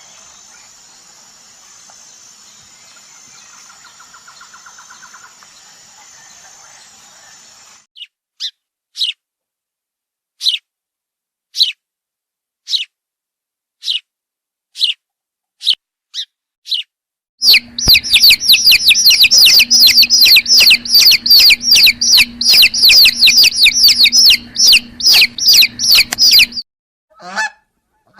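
Birds peeping. First come single high, falling peeps about once a second, then a long run of loud, rapid peeping that stops suddenly. Near the end, lower falling honks begin.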